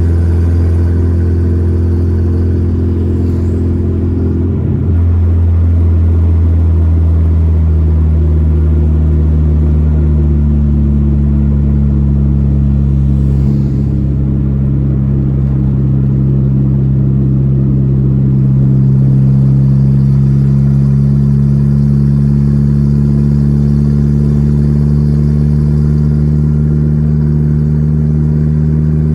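Volkswagen Gol G4 Rallye's engine running while the car is driven, a steady drone whose pitch shifts about five seconds in and again around ten seconds in.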